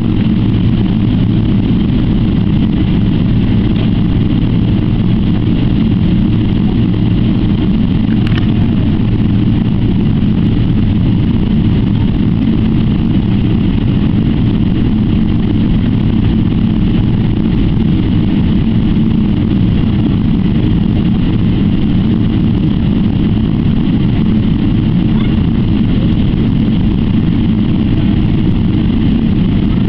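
Steady drone of engines and air systems inside the cabin of a Boeing 777-300ER airliner on the ground before takeoff, with a low hum and a few steady tones running through it. A single faint click about eight seconds in.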